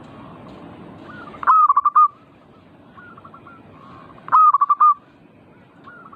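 Zebra dove (perkutut) cooing: two loud staccato coo phrases about three seconds apart, each a rising note followed by a quick run of short notes, with fainter answering calls between them over a steady background hiss.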